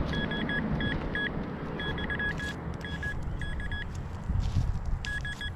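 Metal detector giving repeated short, high-pitched target beeps in several bursts as the coil sweeps over a target, which the detectorist takes for foil.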